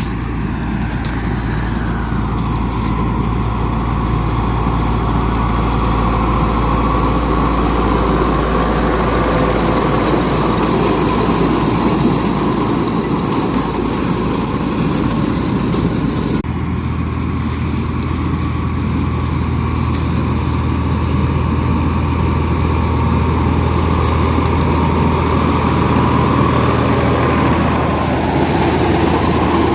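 Farm tractor engines running steadily while pulling corn pickers during corn harvest. The engine sound changes abruptly about halfway through, to a different, higher low hum.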